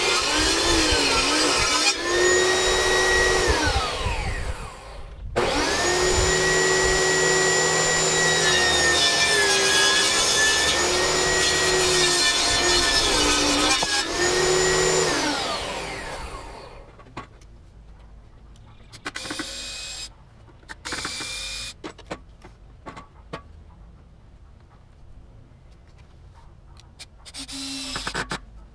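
Table saw with a ripping blade running and cutting hard beech, a steady whine with a slight waver in pitch. It winds down about three seconds in, runs at full speed again from about five seconds, and winds down once more about fifteen seconds in, leaving scattered clicks and a few short noises.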